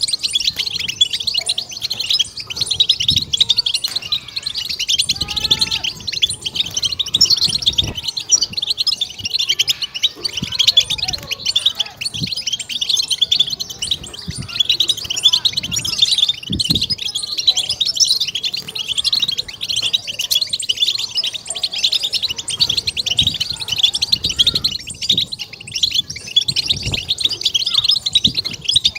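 European goldfinch singing its rapid twittering 'batbata' song, a dense unbroken stream of high chirps and trills.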